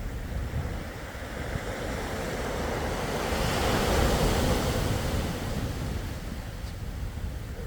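Sea waves on a shore: one wave swells to a peak about four seconds in and then washes back down, over a steady low rumble.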